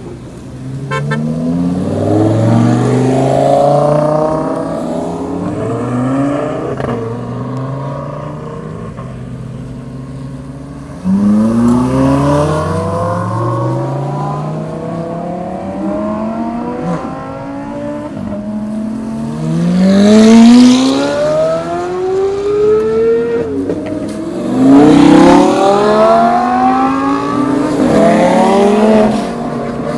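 Supercars revving hard as they drive off and pass one after another, each engine climbing in pitch and then falling away. The loudest passes come a little past two-thirds of the way through and near the end.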